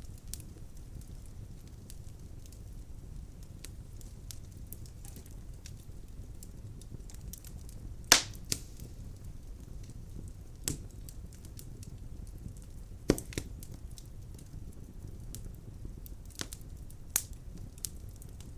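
Fire burning in a fireplace: a steady low rumble with frequent small crackles and a handful of louder sharp pops, the loudest about eight seconds in.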